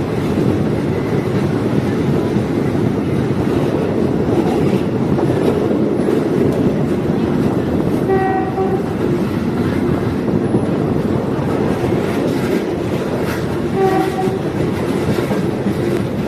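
DMU diesel railcar running along the track with a steady rumble, and two short horn sounds about eight and fourteen seconds in.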